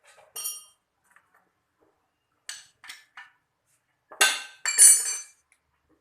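Metal tools and parts clinking against each other with a bright ring: one clink near the start, three lighter ones around the middle, and two louder ones near the end.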